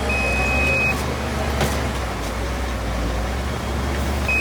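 Heavy earthmoving machine's diesel engine running steadily with a low rumble. A high-pitched beep lasts under a second near the start and sounds again at the very end, and a single sharp clank comes in between.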